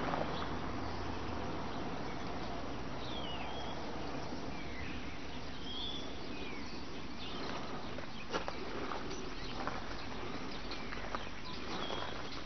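Outdoor rural ambience: a steady background hiss with scattered short bird chirps, and a few faint clicks in the second half.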